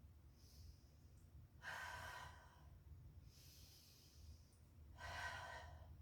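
A woman breathing slowly and deeply through a held yoga balancing pose: two full breaths, each a thin, soft hiss followed by a fuller, louder breath out, the louder ones about two seconds in and about five seconds in.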